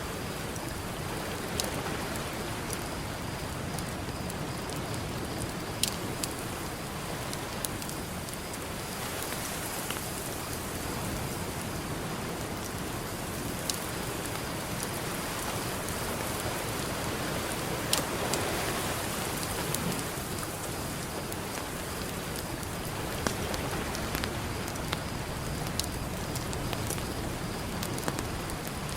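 Campfire crackling with sharp pops every few seconds over a steady wash of ocean surf, which swells a couple of times.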